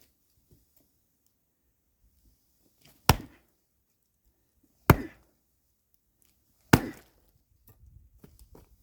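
Axe splitting firewood: three sharp chopping strikes on logs, evenly spaced about two seconds apart, each with a short ring.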